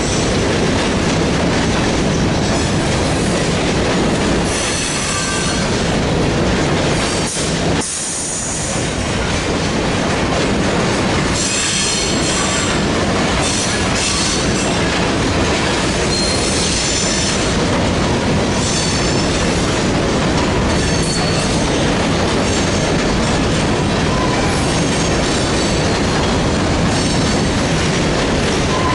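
Freight train cars rolling past close by: a steady, loud rumble and clatter of wheels on rail, with short high wheel squeals coming and going.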